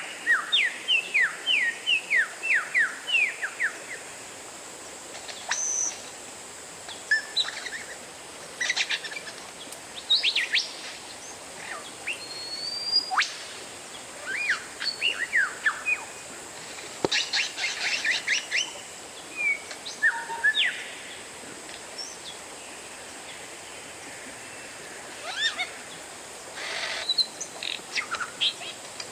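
Oriental magpie-robin (kacer) song: loud, varied whistled phrases, with rapid runs of short falling whistles, upslurred and sliding notes and a few rasping notes, broken by short pauses.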